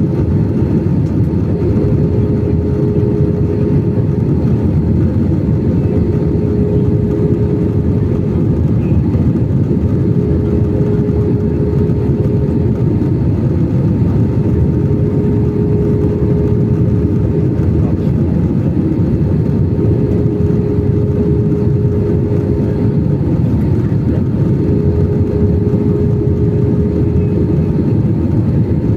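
Steady cabin noise of an airliner in flight: an even rush of engines and airflow with a steady hum on top.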